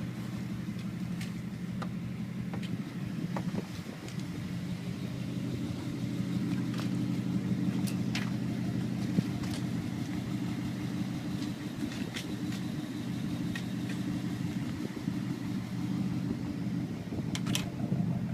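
1963 Ford Galaxie 500's 352 V8 running steadily at a low, even speed through newly installed Porter mufflers, with a few faint ticks over the exhaust note.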